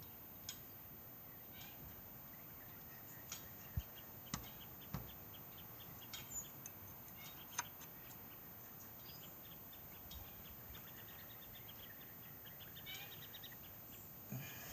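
Birds chirping faintly in the background, with quick high trills twice. About seven light, sharp knocks and clicks are scattered through the first half.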